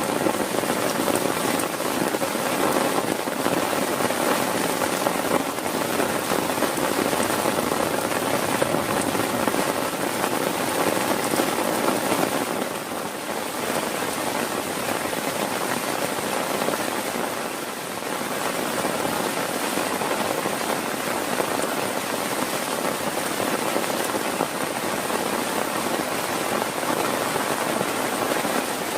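Heavy rain falling steadily on a surface, a dense even hiss that eases slightly twice.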